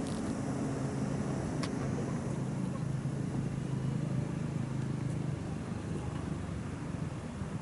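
An engine running steadily with a low hum, which drops away about five seconds in, over a constant background rush.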